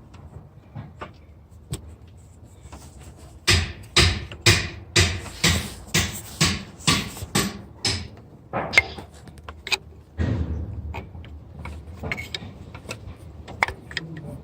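A cover in the engine bay being worked open by hand and tool. A run of about ten sharp clicks or knocks, roughly two a second, is followed by a longer rasping noise about ten seconds in.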